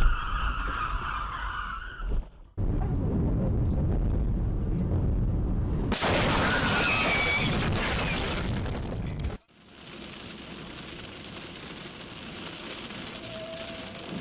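Car and road noise heard through dashcam recordings, in three pieces with abrupt cuts between them; in the middle piece a loud hiss-like noise swells for about three seconds, and the last piece is quieter.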